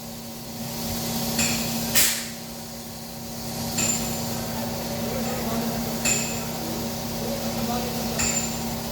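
Five sharp clicks on a handheld automotive diagnostic scan tool, most of them with a short high beep, as its buttons are pressed to navigate the menus. A steady low hum runs underneath.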